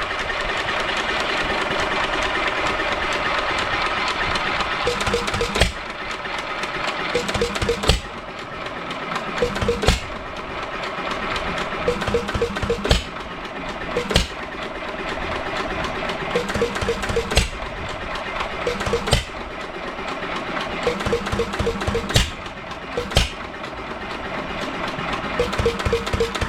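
A 1 3/4 hp Hercules Economy hit-and-miss stationary engine running. It fires with a sharp bang every one to three seconds at uneven intervals and clatters as it coasts between firings.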